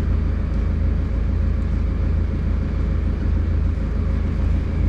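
Boat engine running steadily, a constant low rumble with no change in speed.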